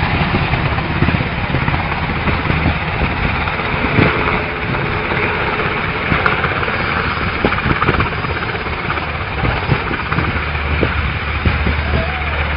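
Light aircraft engine running steadily, buried in a loud rushing wind-like noise, with scattered crackles.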